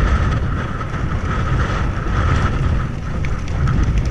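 Wind buffeting the microphone while riding a bicycle, with a steady high tone running through it and a few sharp clicks in the second half.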